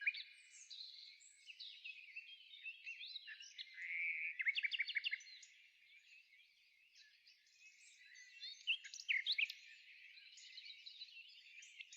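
Songbirds chirping and singing, many short calls and rapid trills overlapping, with a brief lull a little past the middle.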